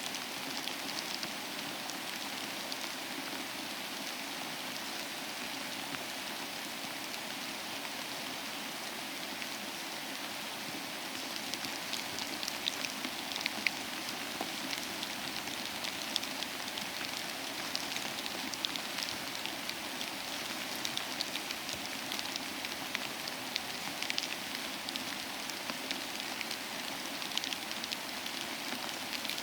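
Steady rain falling: an even hiss with scattered sharp drop ticks, which become more frequent about a third of the way in.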